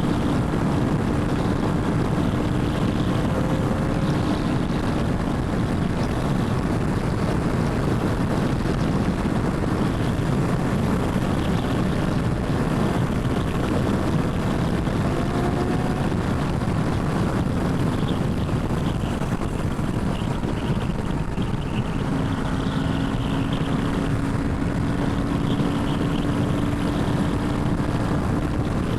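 Royal Enfield Himalayan 450's single-cylinder engine running at a steady cruise, under a constant rush of wind and road noise. A steady tone sits over it at the start and returns for the last several seconds.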